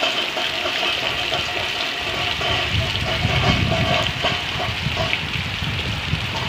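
Heavy tropical storm rain pouring down steadily, with water gushing off the roof edge. A low rumble joins in about two and a half seconds in.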